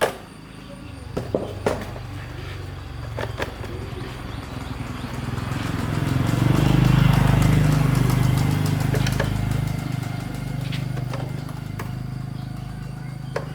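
A motor vehicle engine running, growing louder to a peak about seven seconds in and then fading somewhat, with a few sharp knocks in the first few seconds.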